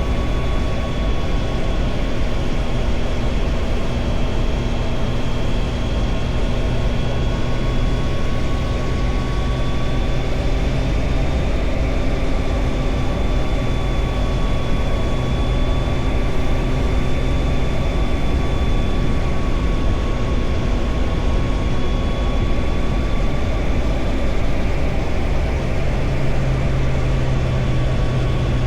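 Triumph Tiger Sport 660's three-cylinder engine running at steady cruising revs, its pitch rising and falling gently, under a heavy rumble of wind and road noise.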